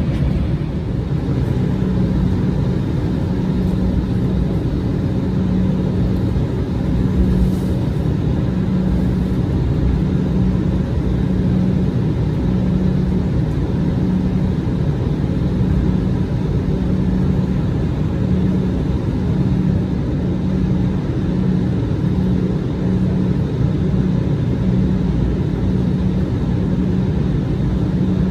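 Steady cabin noise inside an Embraer regional jet: the engines and air system running with a constant low drone and rumble.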